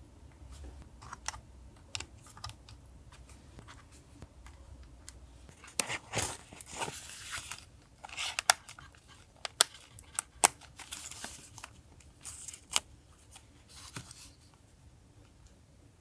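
Paper and stickers being handled for a journal collage: scattered rustling, crinkling and tearing with sharp taps and clicks. It is busiest from about six seconds in and dies down near the end.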